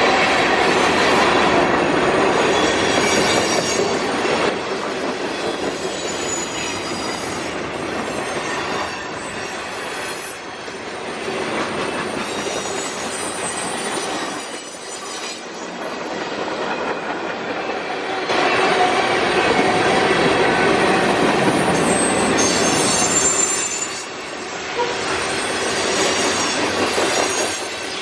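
Freight cars of a mixed freight train rolling past, wheels clattering on the rails, with high-pitched wheel squeal that comes and goes. The loudness rises and falls as the cars pass, loudest about two-thirds of the way through.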